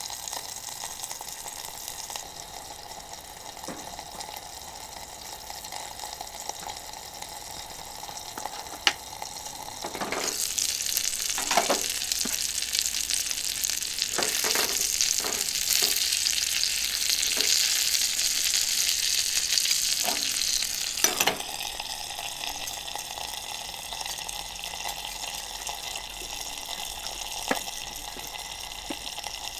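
Chicken thigh frying in butter in a small iron frying pan, a steady sizzle that swells much louder for about ten seconds in the middle. Several sharp knocks come during the louder stretch.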